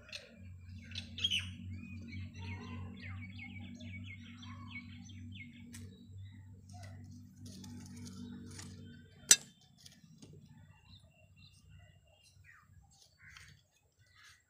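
Birds chirping over a steady low hum, with a single sharp click about nine seconds in, after which the hum stops.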